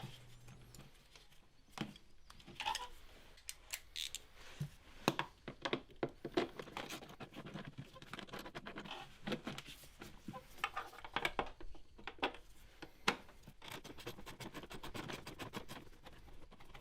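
Hand-tool work on a car's air filter housing: scattered clicks, scrapes and rattles as a spring clip is worked off with pliers and the housing's screws are undone.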